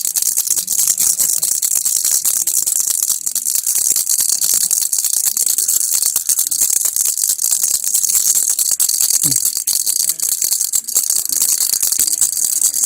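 Baby rattle (kilukki) shaken continuously: a dense, fast, high-pitched rattling of loose pieces inside, steady and without pauses.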